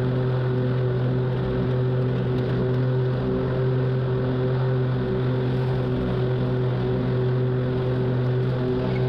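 Zero-turn lawn mower engine running steadily while mowing, a constant even hum with no change in pitch.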